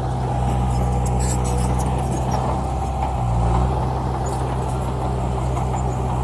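Dump truck's diesel engine running steadily with a low, even drone; its note shifts slightly about three seconds in.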